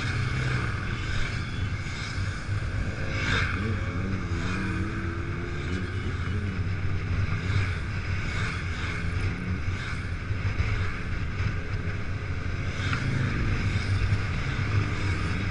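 Motorcycle engine running under way, with wind noise on the microphone; the engine pitch shifts up and down for a few seconds, about four seconds in.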